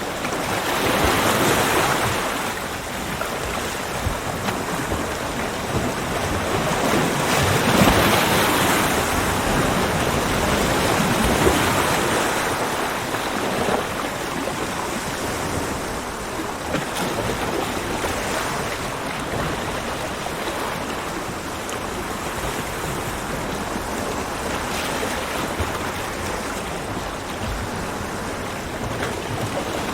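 Ocean waves breaking on a beach: a steady wash of surf that swells louder as waves break, most strongly about a second in and again around eight to twelve seconds, then settles into a gentler wash.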